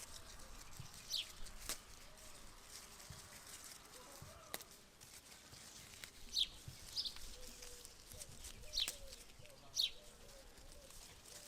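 Small birds chirping outdoors: short, high chirps that fall in pitch, several scattered through, with a few sharp clicks over a faint background.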